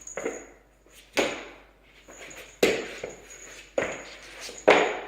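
A series of sharp knocks or thumps, about one every second or so, each dying away quickly, with the last one the loudest.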